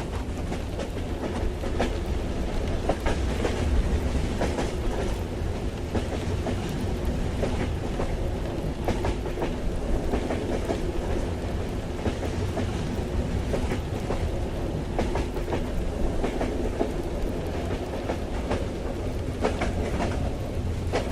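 Train running on the rails, heard from inside a carriage: a steady low rumble with irregular clicks and clacks from the wheels.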